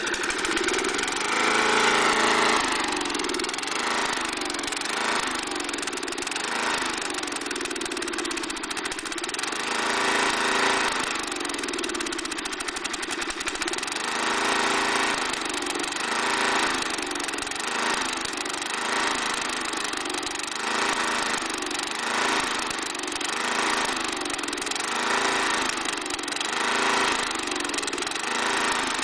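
Snapper mower's Briggs & Stratton engine, warmed up and at full throttle, surging: it drops away as if missing and about to stall, then catches back on, over and over about every two seconds. The owner has no explanation for the fault, which shows only once the engine is warm.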